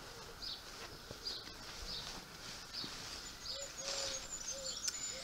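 Birds chirping outdoors: short high chirps repeating about twice a second, with a few short lower notes around the middle.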